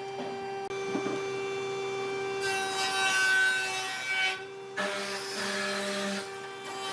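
Power tool working wood or resin: a steady motor whine under rough grinding noise, which changes abruptly about two and a half seconds in and again near five seconds.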